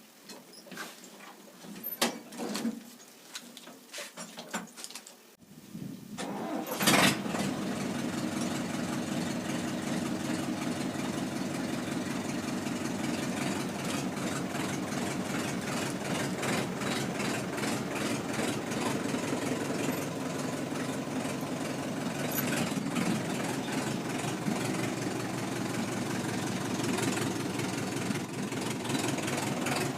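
A few faint clicks and knocks, then about five and a half seconds in a Sonalika WT 60 tractor's diesel engine is started, with a sharp loud bang as it catches, and then runs steadily.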